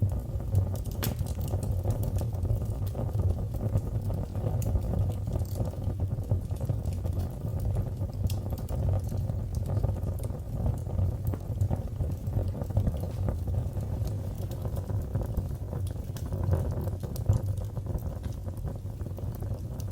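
Fire burning in a fireplace: a steady low rumble of flames with scattered sharp crackles and pops throughout.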